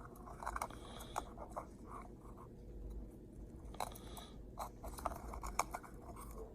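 Faint, scattered small clicks and light scrapes of small plastic Z-scale model train cars being handled and set side by side.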